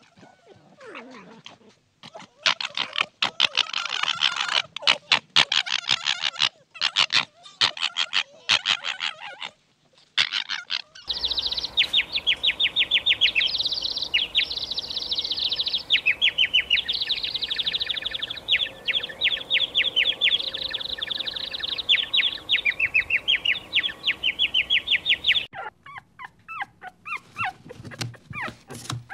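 For about the first ten seconds, bouts of rapid, high chattering calls. Then European goldfinches twitter in fast, high trills for about fourteen seconds. Near the end come a puppy's short high yips and whimpers.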